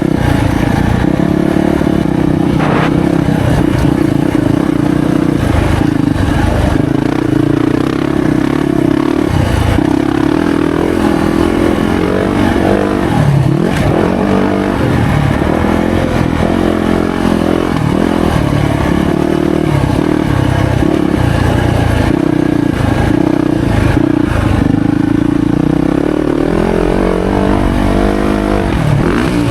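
Yamaha YZ450F dirt bike's 450cc single-cylinder four-stroke engine running hard on a motocross track, revs rising and falling as the rider works the throttle and gears.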